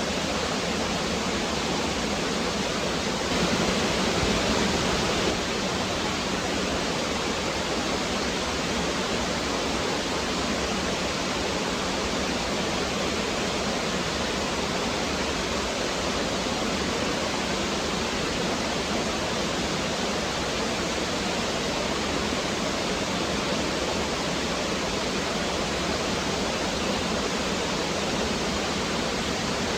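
Woodland stream flowing: a steady rush of running water, briefly a little louder about four seconds in.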